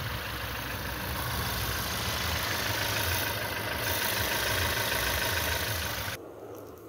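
Volkswagen 1.4 TSI engine running steadily after a rebuild with a refitted cylinder head and new timing chain: a low hum under an even hiss. The hiss cuts off suddenly near the end.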